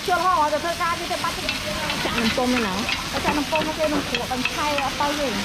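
Small cakes frying in a cast-iron pan with round moulds, a steady sizzle broken by quick taps and scrapes of a pick turning them in their cups. People's voices talk over it.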